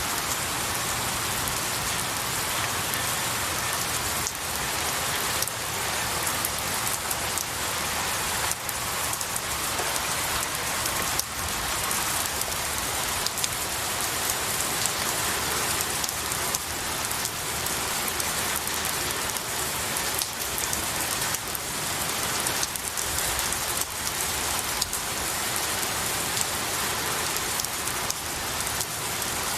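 Steady rain falling on pine needles and trees, a dense even patter with many individual drops ticking through it.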